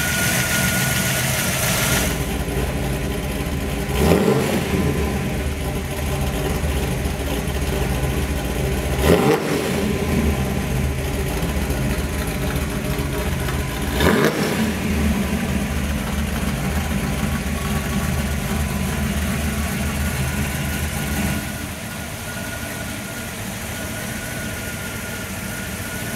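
1976 Pontiac Firebird's fuel-injected 383 stroker V8 (a stroked 350) idling through its aftermarket exhaust, blipped three times, about five seconds apart. The idle settles a little quieter near the end.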